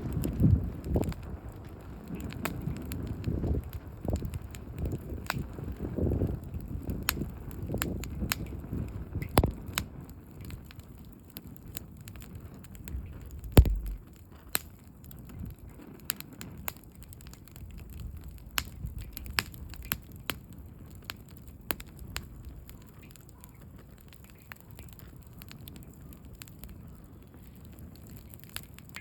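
Wood campfire burning down to embers, crackling with scattered sharp pops. A low rumble under the crackle in the first half fades out. A single louder knock comes about fourteen seconds in.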